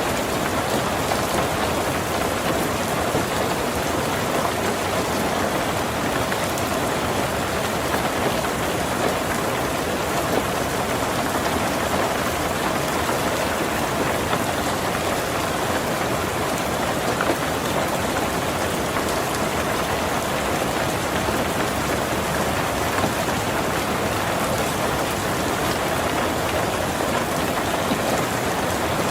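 Heavy rain falling steadily on a tin roof, an even dense patter with no breaks.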